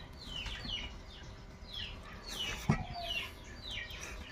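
Birds chirping: a run of short, high calls that fall in pitch, several a second. A single sharp knock about two and a half seconds in.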